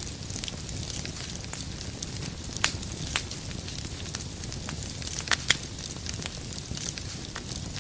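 Wood fire burning in a fireplace: a steady low rush of flames with irregular sharp crackles and pops of burning firewood, the loudest two about five and a half seconds in.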